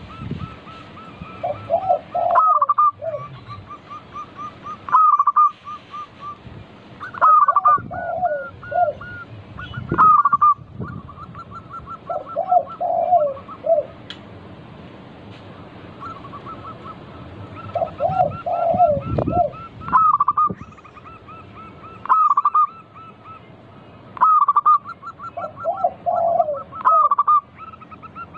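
Zebra doves (perkutut) cooing repeatedly: a loud phrase about every two and a half seconds, with quicker runs of short, even notes between the phrases.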